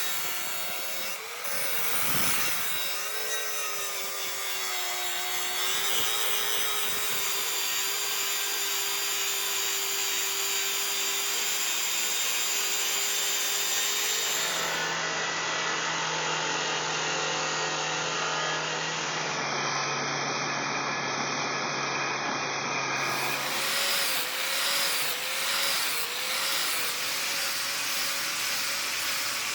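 Power grinder abrading a steel knife blank with a continuous grinding rasp, its tone wavering slightly as the pressure changes.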